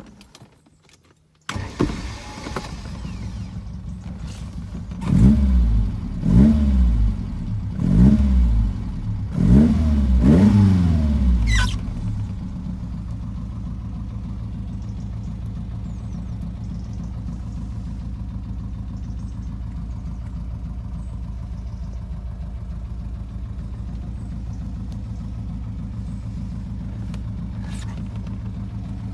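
1974 Lotus Elan Sprint's twin-cam four-cylinder engine catching and starting about a second and a half in, revved in four quick blips that rise and fall, then settling into a steady idle.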